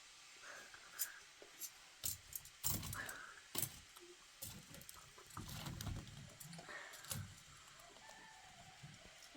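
Scattered knocks and clinks, loudest a few seconds in, with a few short clucking calls.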